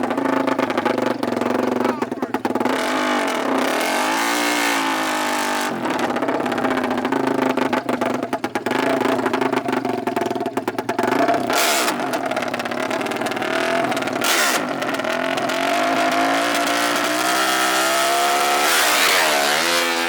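Off-road racing engines revving hard, their pitch climbing and dropping again several times. Near the end one engine winds up steadily and then falls away.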